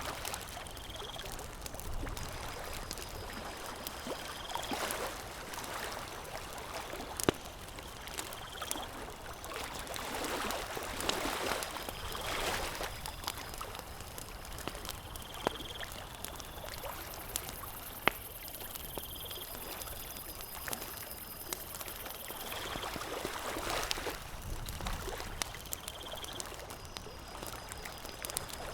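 Campfire crackling, with scattered sharp pops over a steady rushing noise that swells now and then.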